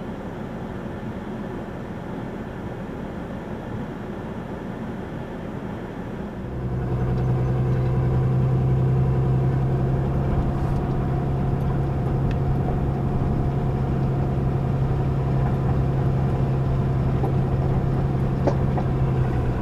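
Truck engine running as the truck drives a trail. About six seconds in it grows louder and settles into a steady low hum.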